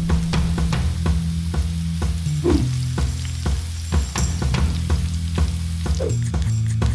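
Chopped vegetables sizzling and crackling in hot oil in a pan, over background music with a steady low bass line.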